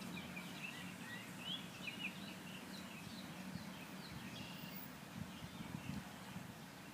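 Small birds chirping in quick short calls over a faint steady low hum.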